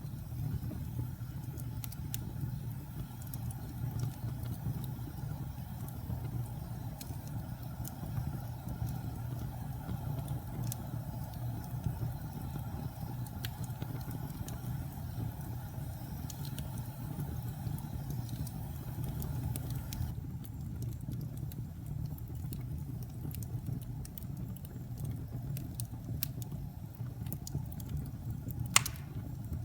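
Wood fire burning in a fireplace: a steady low rumble with scattered crackles, and one sharp pop near the end.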